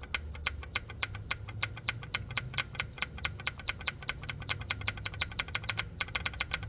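Variable cam timing solenoid on a Ford 2.0 EcoBoost clicking rapidly, several clicks a second, as 12 volts are tapped on and off its pins with a jumper lead; the clicking shows this solenoid is working. A low steady hum lies underneath.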